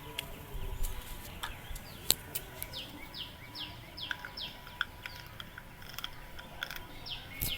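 A bird calling in runs of short, quickly falling high notes, about three a second, in two bursts about three seconds apart. Scattered sharp clicks sound alongside, the loudest about two seconds in.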